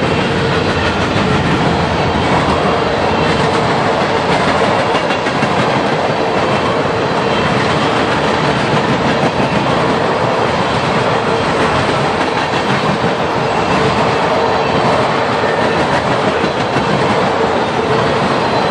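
Freight train's tank cars and covered hoppers rolling past close by: a steady, loud noise of steel wheels on the rails, with a steady tone held beneath it.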